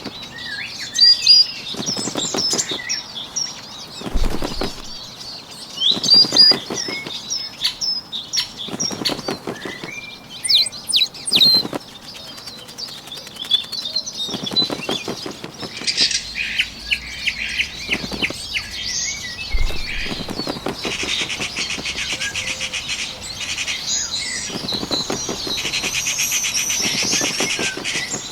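Bird wings flapping in repeated bursts every couple of seconds, with small birds chirping over them in the first half. From about halfway through, a steady high buzzing trill joins in and carries on to the end.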